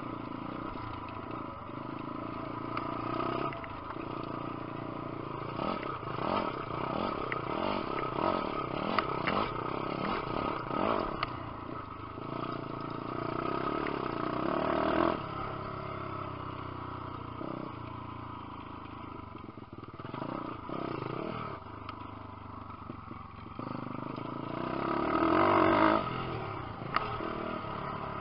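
Lifan 150cc four-stroke single-cylinder pit bike engine running under way, revving up and down over and over through the gears. It surges loudest about halfway through and again near the end.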